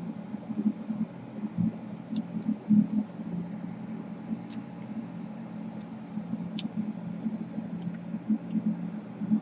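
A steady low hum with scattered faint, sharp clicks and taps of small laptop parts being handled while a ribbon cable is worked into its connector.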